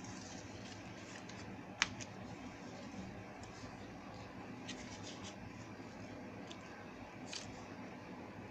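Sheet of paper handled and creased as it is folded, with faint rustling and scraping and a few light ticks, the sharpest about two seconds in, over a steady low hum.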